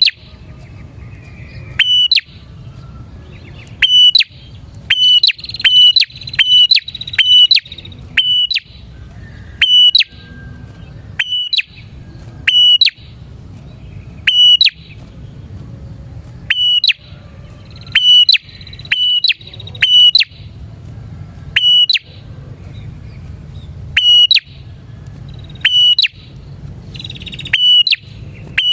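Prinia (prenjak) calling: a loud, sharp call repeated every second or two, sometimes twice in quick succession, each a brief click with a high ringing note. Under it run a steady low noise and fainter twittering.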